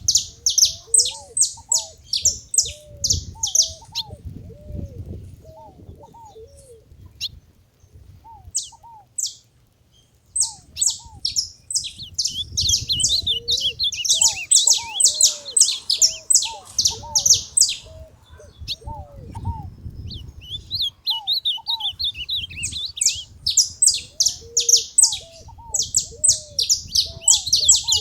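Saffron finch (canário-da-terra) calling in fast runs of sharp, high chirps, pausing for several seconds early on and then starting up again in long bursts. Lower curved notes repeat underneath.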